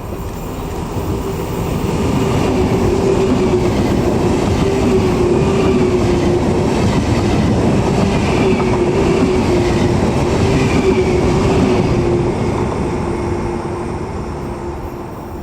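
Electric train passing through a station: it builds up over a couple of seconds, stays loud for about ten seconds and fades near the end, with a steady hum that wavers slightly in pitch over the rumble of the wheels.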